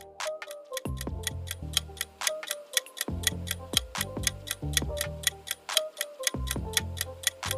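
Countdown timer sound effect, a fast, even clock-like ticking, over light background music with a bass line.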